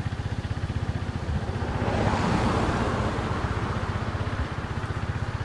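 Engine idling close by with a steady rapid low pulse, and a rushing noise that swells and fades again between about two and three seconds in.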